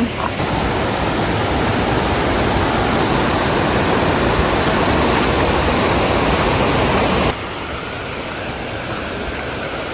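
Water from Shannon Falls rushing and cascading down its rocky course, a steady, loud roar of white water. About seven seconds in it drops suddenly to a quieter, duller rush.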